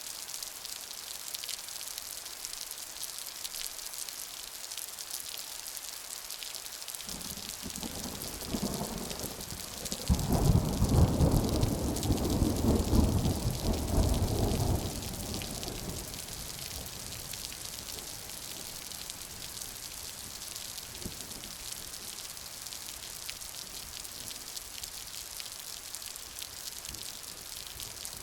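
Steady rain hissing, with a roll of thunder that builds about a quarter of the way in, is loudest near the middle for several seconds, then fades away.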